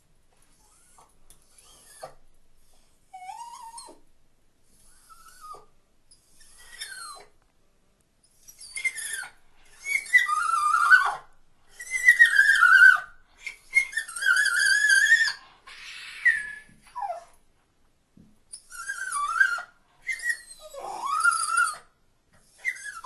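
A dog whining and whimpering in a string of high, wavering calls, faint at first and getting louder and longer about eight seconds in.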